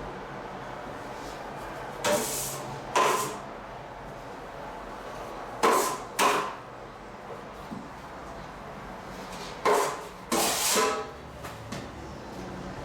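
Six short knocks or clatters in three pairs, each with a brief ring.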